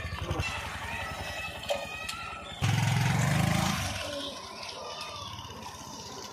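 Heavy diesel engine of the earth-moving machinery chugging steadily. It revs up loudly for about a second in the middle, then drops back.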